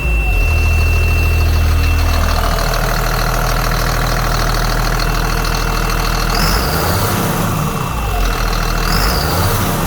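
Caterpillar C7 inline-six turbo diesel being revved up a few times and falling back toward idle, a high whistle rising and falling with each rev in the second half.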